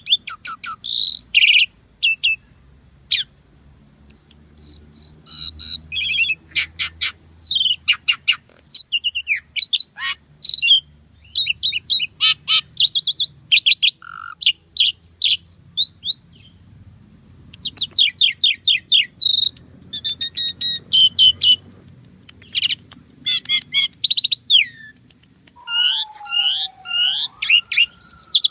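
Asian pied myna (jalak suren) singing a fast, varied song of chattering chirps, rattles and sharp whistles, with short pauses between phrases. Near the end a long whistle glides down, then up, then down again.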